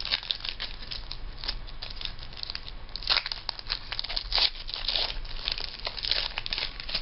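Foil trading-card pack wrapper crinkling and tearing as a pack is opened, an irregular run of crackles with louder bursts in the second half.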